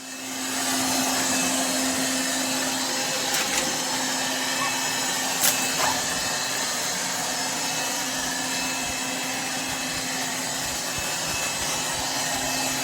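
ILIFE A12 Pro robot vacuum's suction motor running steadily: an even rushing whoosh over a constant hum, with a couple of small clicks a few seconds in.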